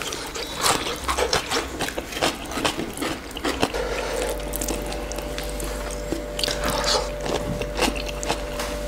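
Close-miked eating of chicken wings: wet chewing, lip smacks and small mouth clicks, coming irregularly.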